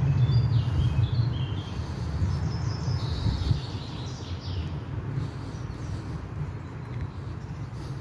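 Small birds chirping, a run of short high notes in the first few seconds, over a steady low rumble that eases off about halfway through.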